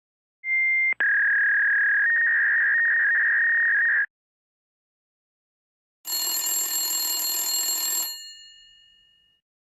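Telephone sound effects: a steady high line tone, heard as over a phone line, runs for about three and a half seconds with a click about a second in. After a pause, a telephone ring with a bright, bell-like ring sounds for about two seconds and then fades out.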